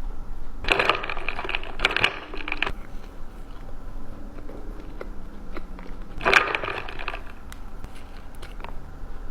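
Crunchy food bitten and chewed close to the microphone, in three loud crackling crunches with quieter clicky chewing between them.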